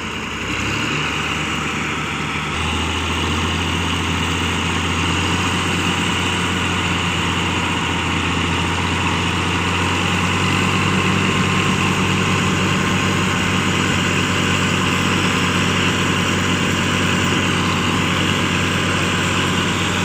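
Tractor engine running steadily. Its note steps up about a second in and again a little later, then holds even.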